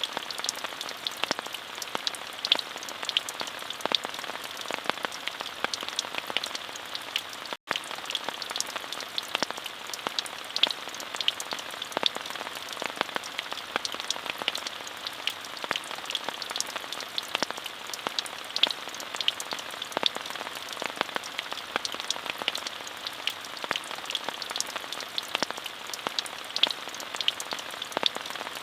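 Steady rain falling, an even hiss dotted with many separate drop strikes. It cuts out for a split second about seven and a half seconds in.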